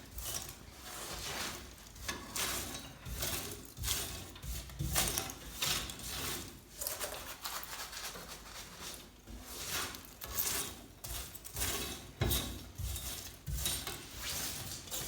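Ash and debris being scraped and raked out of a wood-burning fireplace, with irregular scrapes and metallic clinks.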